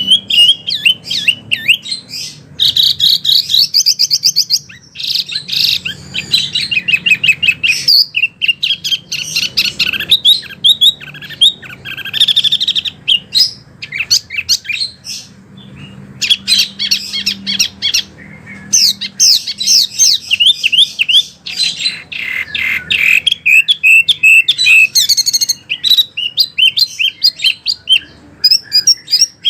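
A wambi songbird singing almost without pause: fast chattering trills and sharp, repeated high chirps, broken by a couple of short lulls.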